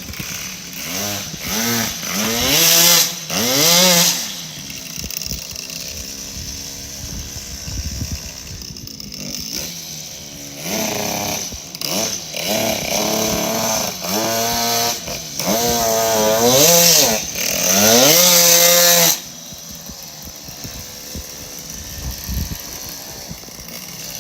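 A moped's small two-stroke engine revving up and down again and again, its pitch rising and falling with each blip of the throttle. There is a long high rev in the second half, and then it drops back to a low steady running.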